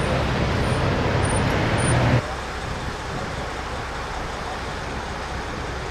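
Steady road traffic and engine noise, with a low engine hum that drops away suddenly about two seconds in, leaving a quieter steady rumble.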